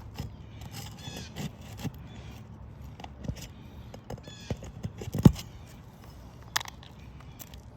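Scattered light knocks, clicks and scrapes of hand work on asphalt roof shingles, with one sharp knock about five seconds in and a smaller one a second later.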